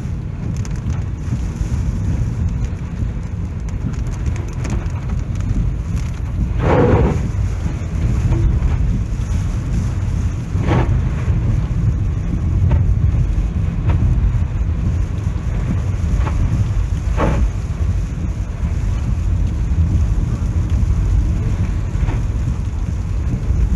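Typhoon rain and wind: a loud, steady low rumble of wind and rain, with a few sharp knocks spread through it.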